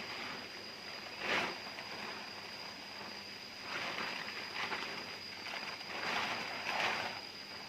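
Irregular rustling and scraping noises in several short bursts, the sharpest about a second and a half in, over a steady thin high-pitched whine.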